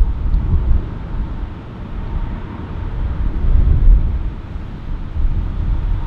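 Low jet rumble of a departing airliner mixed with wind gusting on the microphone, rising and falling in waves.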